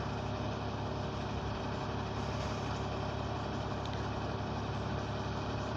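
Large vehicle engine idling steadily, an even hum with no change.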